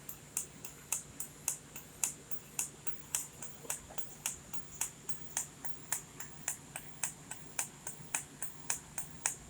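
Sharp, even ticking about four times a second over a low steady hum and a faint high whine, from a welding setup on a welding positioner turntable as a weld is run.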